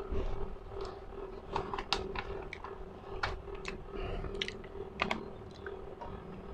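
Close-miked chewing: irregular wet clicks and crackles from the mouth, over a faint steady electrical hum.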